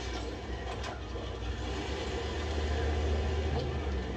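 Low, steady rumble of a car engine idling, growing a little louder about halfway through.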